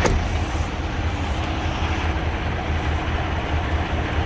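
Idling diesel truck engines: a steady low rumble.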